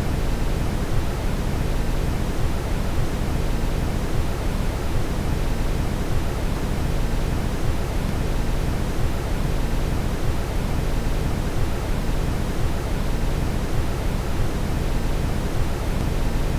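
Steady brown noise: an even, deep rushing hiss, heaviest in the low end and fading toward the highs, with no change in level.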